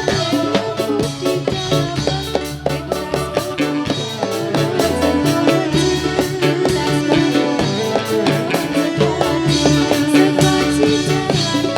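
Live band playing an instrumental passage with a steady percussive beat, with no singing.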